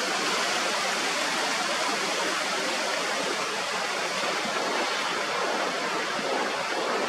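Steady, even rushing of wind on a cliff top.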